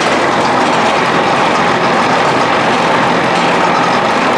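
Mini round baler running off a Kubota tractor's PTO, its chain drives clattering steadily over the running tractor engine while the chains are lightly oiled.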